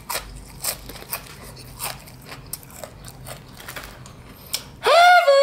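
Crispy fried chicken skin crunching as it is chewed, about two crunches a second. Near the end, a short, loud pitched cry cuts in.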